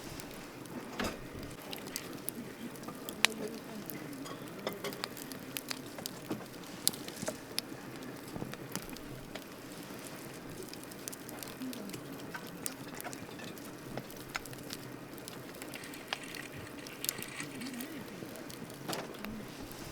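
Wood campfire crackling: irregular sharp pops and snaps over a steady low rush of burning, with one louder pop about three seconds in.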